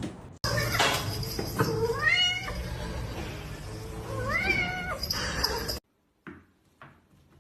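A domestic cat meowing twice, two drawn-out meows that rise and fall in pitch, about two and a half seconds apart.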